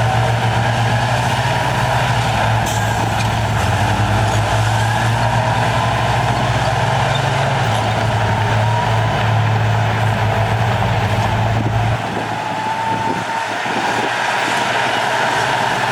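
Heavy diesel earthmoving machinery running, a strong low engine note with a faint higher whine gliding up and down over it. The low engine note drops away about twelve seconds in and returns near the end.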